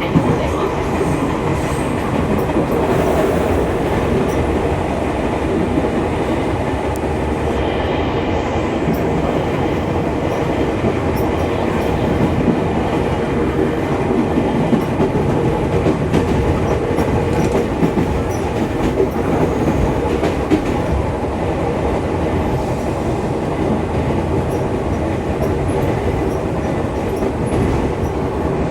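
Running sound of a Fujikyu 6000 series electric train (a converted JR 205 series with field-added excitation control), heard on board: a steady rumble of wheels on rail with a faint motor and gear hum and occasional sharp clicks from the track.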